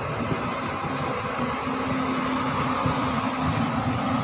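Steady running noise of a moving passenger train heard from its coach, with a steady low hum that sets in just after the start.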